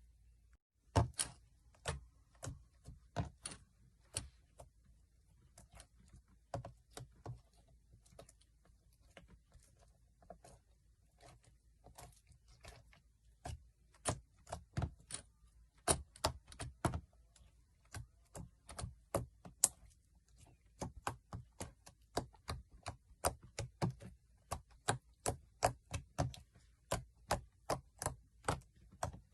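Slime being played with by hand, making a long run of sharp clicks and pops, a few a second, that begins about a second in.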